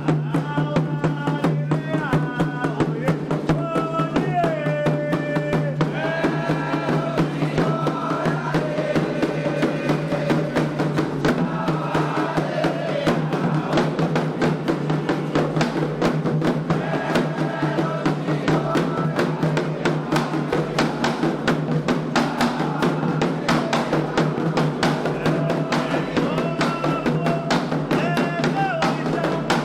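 Candomblé ritual music: atabaque hand drums playing a dense, steady rhythm while voices sing a chant with long held notes.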